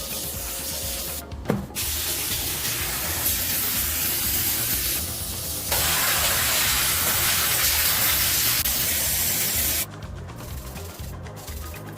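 A pressurised spray hissing in long blasts: it breaks off briefly with a short knock about a second and a half in, comes back louder around the middle, and cuts off suddenly near the end.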